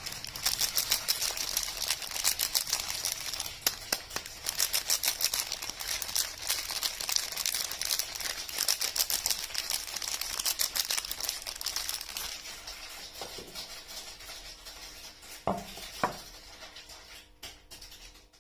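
Wrapping on bars of soap crinkling and crackling as it is handled and unwrapped, busy for the first two thirds and then thinning out. Near the end there are two short, sharp sounds in quick succession.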